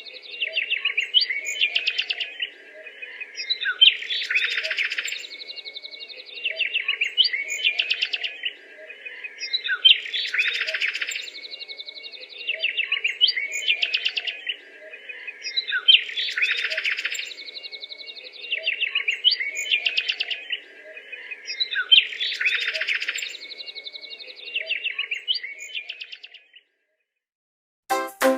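Birds chirping and twittering in a repeating pattern: the same run of chirps comes back about every six seconds, like a looped recording. It stops abruptly about two seconds before the end.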